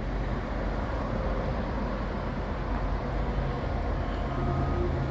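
A vehicle engine running steadily: a low hum under a wash of outdoor noise, a little stronger in the second half.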